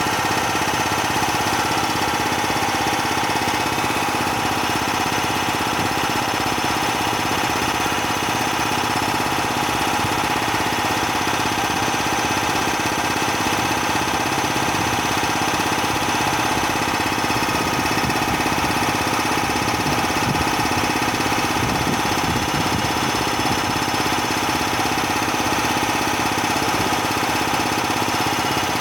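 Bauer 330-bar high-pressure compressor running steadily, a constant mechanical drone with a fixed set of tones.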